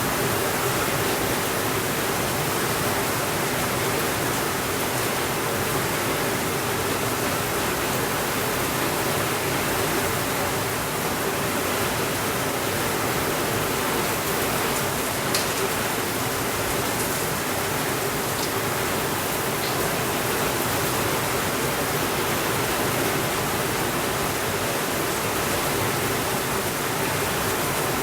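Steady, even rainfall, with a few faint ticks in the middle.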